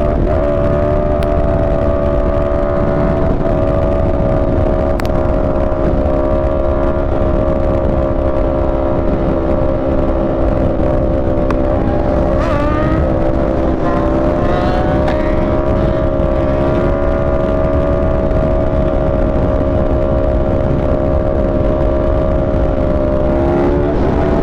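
Yamaha R1M's crossplane inline-four engine at a steady cruising speed, heard over wind rush on a helmet-mounted mic. Near the end its pitch starts to rise as the bike accelerates.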